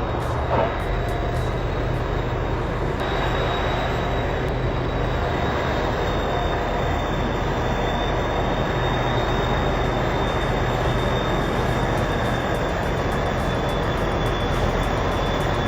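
A heavy machine's engine running steadily, a constant deep rumble with a faint high whine on top.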